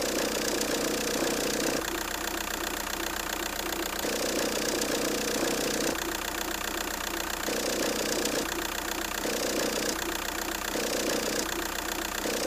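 VW 1.9 TDI four-cylinder diesel engine idling steadily with its typical diesel clatter. The sound shifts in character every second or two.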